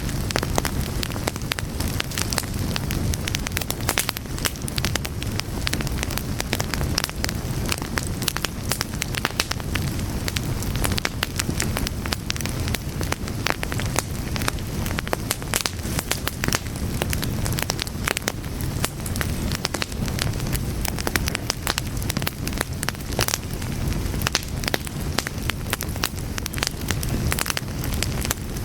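Fire crackling, with frequent sharp pops and snaps over a low, steady rumble of flames.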